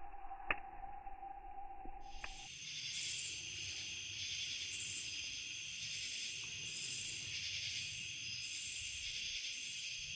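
A steady hum with a few sharp clicks, then from about two seconds in a high, dense insect chorus droning in the woods, swelling and fading roughly once a second.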